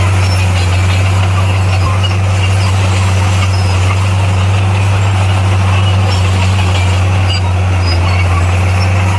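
Diesel engine of heavy earthmoving equipment running steadily with a low, even drone.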